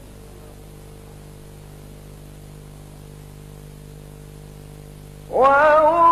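Steady hum and hiss of the recording during a pause in melodic Quran recitation, then about five seconds in the reciter's voice comes back in on a long, held, ornamented phrase.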